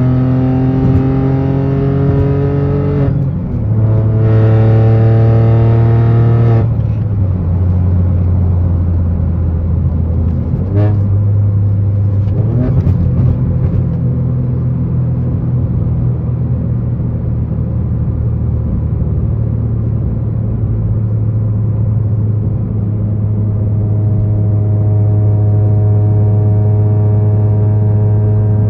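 Straight-piped Ford Focus 1.0 EcoBoost three-cylinder engine, running with no muffler, pulling through the gears. The pitch climbs, breaks at a gear change about three seconds in, and climbs again. It then lifts off to a lower steady drone and holds it, with the pitch building slowly again near the end.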